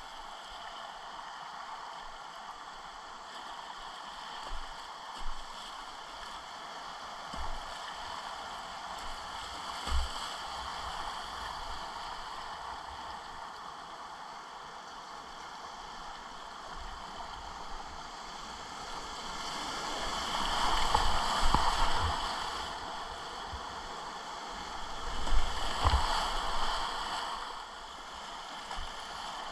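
Whitewater rapids rushing around a kayak, the splashing growing louder twice, for a couple of seconds each, in the second half. A few dull knocks sound early on.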